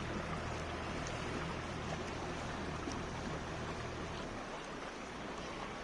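Water sloshing and lapping against a small tour boat, with the boat's engine running with a low hum that drops away about four seconds in.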